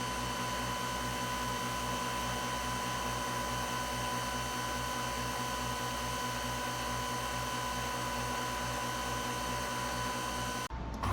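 Steady mechanical hum with a fixed whine and an even low pulsing, about three pulses a second. It cuts off abruptly near the end, followed by a click.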